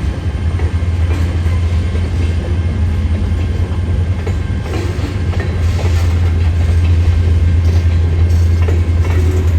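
A train running by with a steady low rumble.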